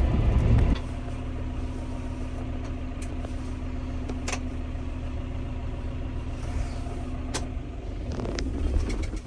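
Tractor engine running steadily, heard as an even hum. A heavier low rumble drops away within the first second, and there are a few light clicks along the way.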